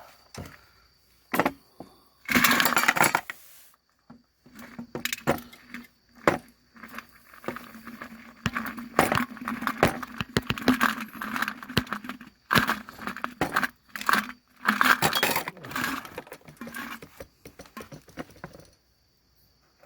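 Irregular clinks, clicks and scrapes of small hard objects being handled, like dishes and utensils, with several short bursts of rustling noise.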